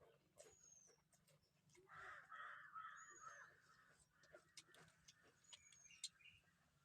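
Faint bird calls: a crow's harsh cawing about two seconds in, lasting a couple of seconds. A small bird gives a short, high, downward-hooked chirp about every two and a half seconds, with faint scattered clicks.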